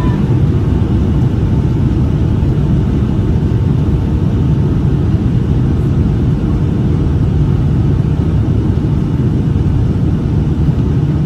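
Steady cabin rumble of a Boeing 757-200 in flight: engine and airflow noise from its Pratt & Whitney PW2000 engines, heard from inside the passenger cabin.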